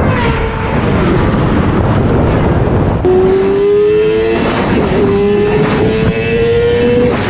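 Sport motorcycle engine at high revs under heavy wind rush on the microphone. About three seconds in, the engine note comes up and climbs steadily, breaks briefly about a second and a half later as if at a gear change, then climbs again.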